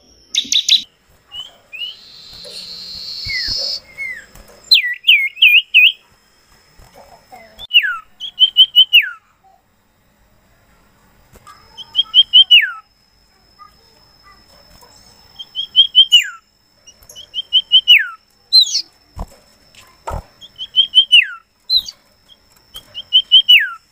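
A songbird repeating one short whistled phrase about every two seconds: a quick run of three or four high notes ending in a long downward slur. A thin, steady high tone runs faintly under much of it.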